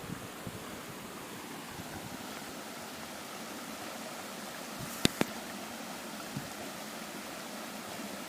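Mountain stream flowing, a steady rushing of water. About five seconds in, a sharp double click stands out above it.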